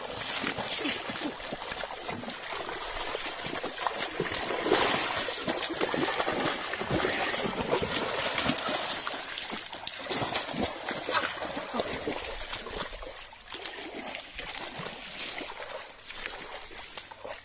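Shallow muddy water splashing and trickling in many small, irregular splashes as hands search through water hyacinth roots for fish. It is busiest through the middle and quieter near the end.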